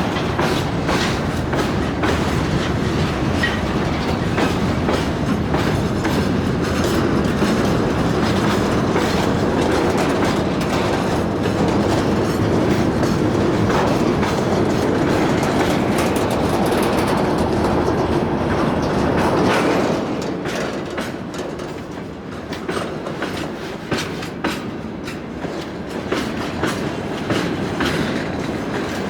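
Freight train wagons rolling past, their wheels clattering over the rail joints. About twenty seconds in the sound drops and grows quieter, leaving separate sharp clicks.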